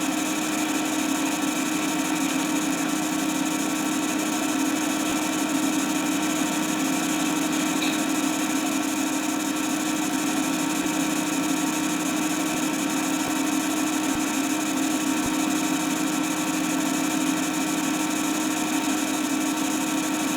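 A steady mechanical hum with hiss that does not change, holding one low drone and several fixed higher tones.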